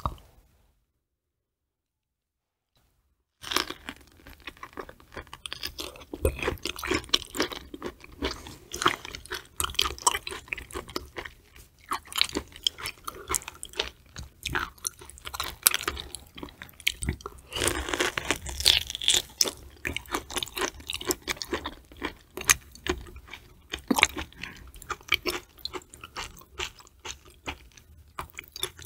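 After about three seconds of silence, a person eats close to the microphone: dense, irregular chewing with wet smacking and clicking mouth sounds.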